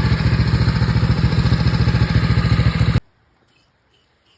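Honda GX270 single-cylinder engine running steadily and loudly with an even, rapid firing pulse, cutting off abruptly about three seconds in.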